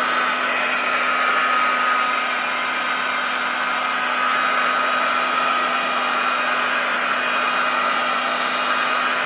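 Heat gun blowing steadily, a constant rush of air with a faint steady whine, heating a warped pinball playfield plastic to soften it for flattening.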